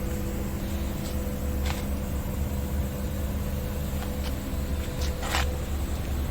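Scania R650's V8 diesel idling steadily with a low rumble, with a few short clicks or knocks over it, the longest about five seconds in.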